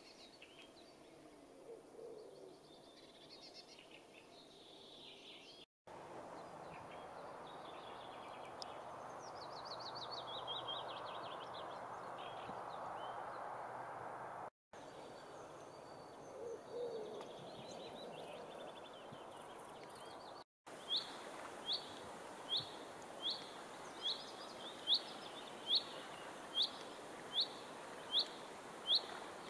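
Outdoor birdsong over a steady background noise, with a falling trill of quick notes in the middle; in the last third a bird repeats one sharp, falling note about once every 0.8 seconds, the loudest sound here.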